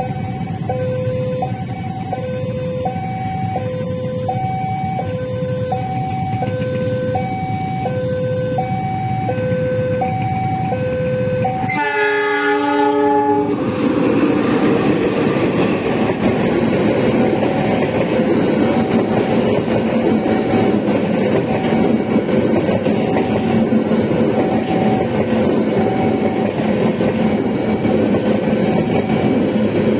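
Level crossing alarm sounding two alternating tones, about one change a second. About twelve seconds in, a CC206 diesel-electric locomotive sounds one horn blast of about a second and a half as it reaches the crossing. The locomotive and its passenger cars then run past, the wheels clattering on the rails, with the crossing alarm still faintly audible underneath.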